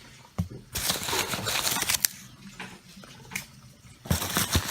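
Packaging being rustled and torn open while a box of engine mounts is unpacked, in two noisy bursts: one about a second in and one near the end.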